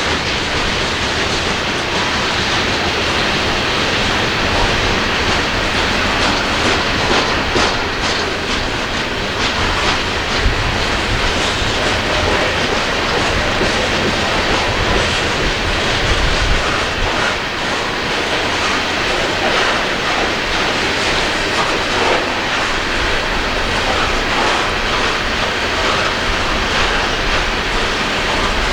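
Coal train cars rolling steadily past, wheels clattering over the rails with a continuous rumble.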